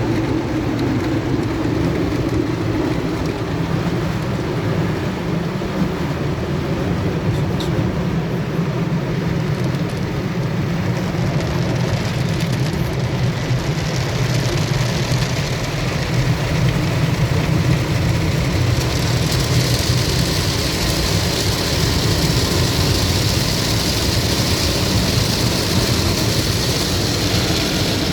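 Automatic conveyor car wash working over the car, heard from inside it: steady machinery noise with water spraying, the hiss growing stronger about two-thirds of the way through.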